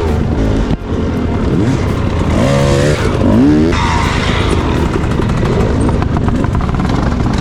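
Dirt bike engine running hard on a trail, revving up and down, with quick rises and falls in pitch near the middle.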